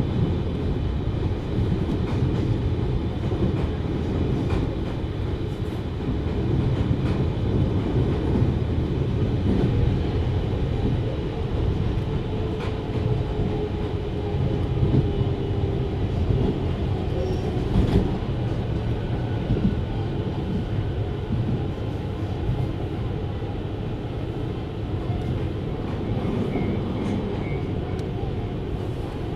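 JR Hokkaido 733 series electric train running, heard from inside the passenger car: a steady, heavy rumble of wheels on rail, with a faint tone that sinks slightly in pitch about halfway through.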